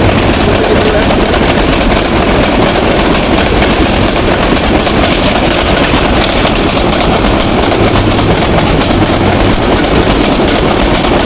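Intercity passenger train passing close by, its coaches' wheels clattering steadily over the rail joints in a loud, continuous rumble. A low drone comes and goes at the start and again about eight seconds in.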